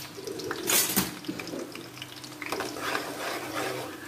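Sliced onions and green chillies sizzling in hot oil in an aluminium kadhai over a gas flame that has just been turned up, frying for a tadka. A metal slotted spoon stirs and scrapes against the pan a few times.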